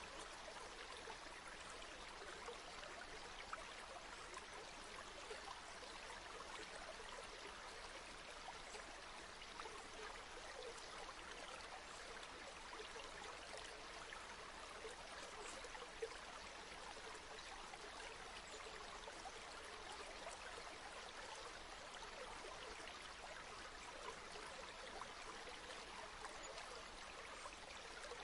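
A river flowing: a steady, faint rush of water with no breaks.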